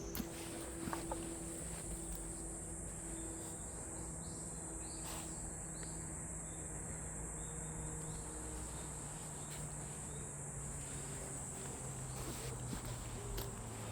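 Cicadas buzzing in one steady, high, unbroken drone.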